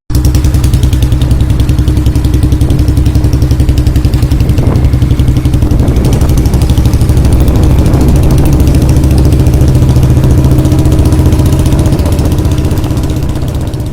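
Royal Enfield Bullet single-cylinder engine running loudly at raised revs through an aftermarket Punjab mini silencer, with a rapid, even exhaust beat. The sound dies away over the last couple of seconds.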